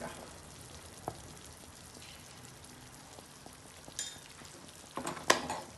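Chicken mince frying in a pan with a steady fine sizzle, broken by a few sharp clicks and a short cluster of louder knocks near the end.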